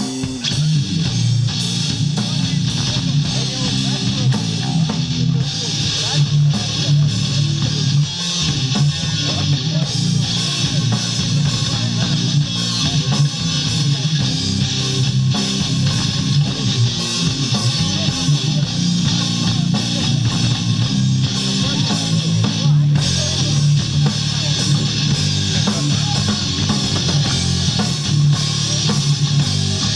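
Rock music played on guitar and drum kit, loud and continuous.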